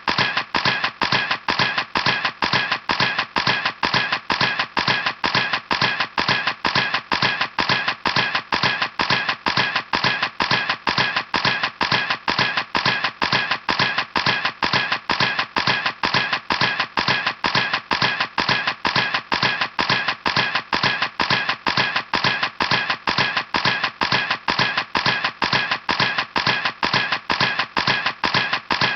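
Camera shutter firing over and over in a steady, even rhythm of about three clicks a second, like a continuous burst.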